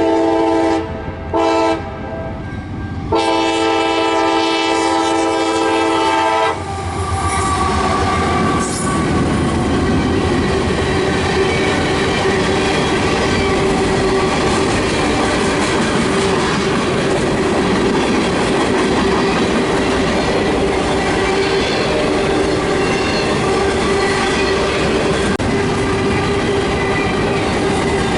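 Diesel locomotive air horn sounding a chord in three blasts: one ending just after the start, a short one, then a long one lasting about three seconds, the close of a grade-crossing signal. The train then rolls by, with steel wheels clattering over rail joints and a steady tone.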